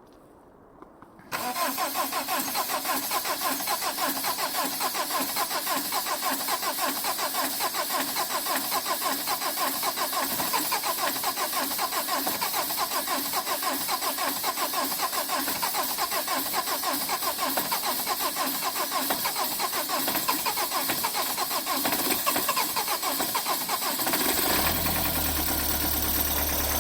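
Starter motor cranking a 2009 Subaru Impreza's 2.0-litre boxer diesel in −16 °C cold for over twenty seconds: a fast, even pulsing beat of the engine turning over. It starts about a second in, and near the end a deeper rumble comes in as the engine begins to fire and catch.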